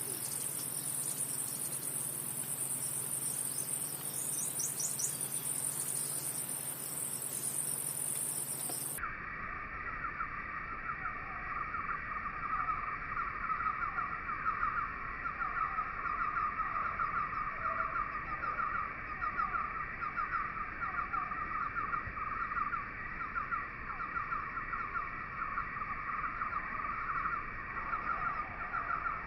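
Crickets and other insects chirring in a steady, high-pitched trill. About nine seconds in the sound cuts abruptly to a lower-pitched chorus of rapid, evenly repeating pulses.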